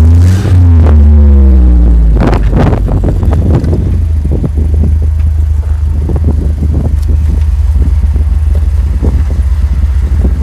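Vehicle engine running under a heavy low rumble, its pitch shifting in the first two seconds. After that come many short knocks and rattles over the rumble, as of a vehicle jolting over rough off-road ground.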